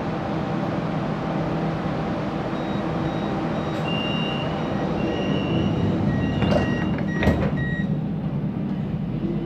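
Siemens Inspiro metro train running between stations, heard from inside the car: a steady rolling rumble, with high-pitched tones coming and going through the middle and two sharp knocks about six and a half and seven and a half seconds in.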